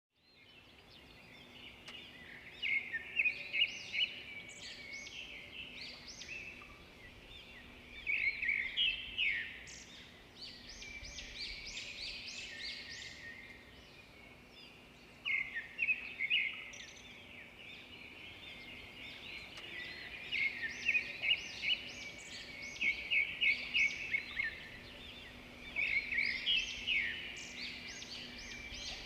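Songbirds singing and calling over one another in bursts of rapid chirps and trills every few seconds, with a faint steady hum underneath.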